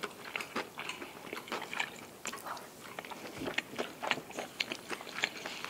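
Close-up chewing of a mouthful of sundae (Korean blood sausage), a run of small irregular clicks and smacks from the mouth.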